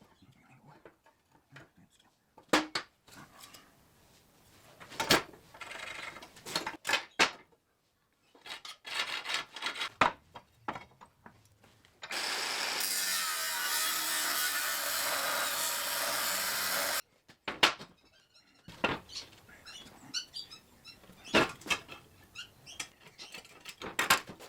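Workshop handling noises, sharp metal knocks and clatter. About halfway through, a power tool runs steadily for about five seconds, then cuts off suddenly.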